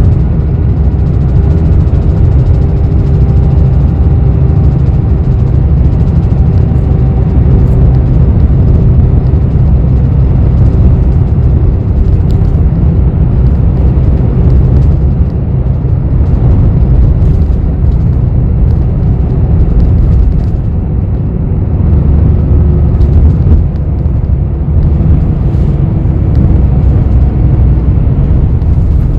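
Cabin noise inside a bus: a steady low engine rumble, with faint whining tones above it.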